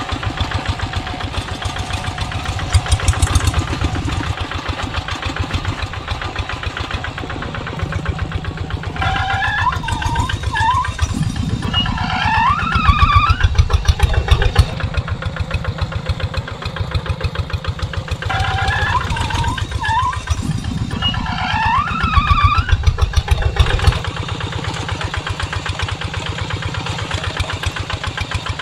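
Diesel walking-tractor engine running steadily with a fast, even knocking beat. Twice a higher warbling, gliding sound rises over it for several seconds.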